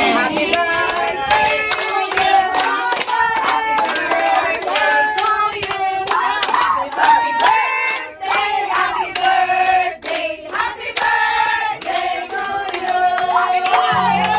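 A group of people singing together while clapping their hands along in a steady rhythm.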